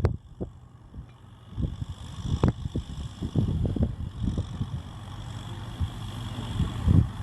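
Kubota M6040SU tractor's diesel engine running, with uneven low buffeting that sounds like wind on the microphone. Two sharp knocks come through, one at the very start and one about two and a half seconds in.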